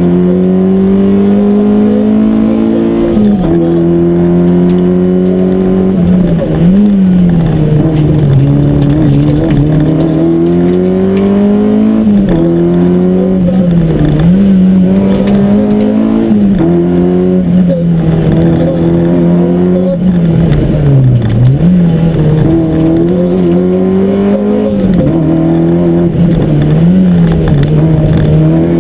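Peugeot 205 GTI rally car's four-cylinder engine heard from inside the cabin at stage pace, its note climbing steadily through each gear and dropping sharply at each gear change or lift, many times over.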